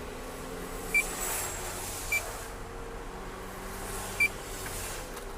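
Short, high electronic beeps, four of them at uneven intervals, over a steady low hum.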